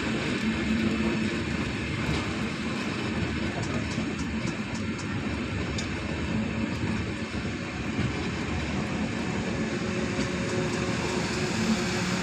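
Steady running noise of a moving vehicle: an even rumble and hiss with a low hum, without letup.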